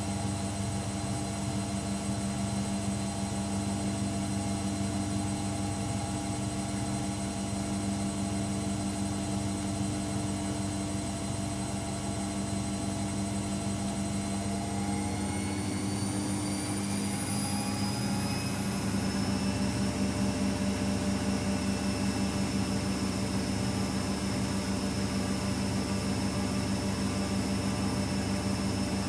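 AEG Electrolux Lavamat L74810 washing machine running, its motor and drum giving a steady whine with a low hum beneath. About halfway through, the whine rises in pitch as the drum speeds up, then holds steady at the higher speed.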